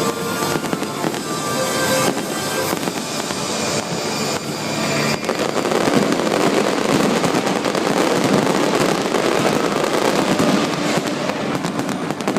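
Fireworks crackling and bursting over show music. About five seconds in the music gives way to a dense, continuous crackle.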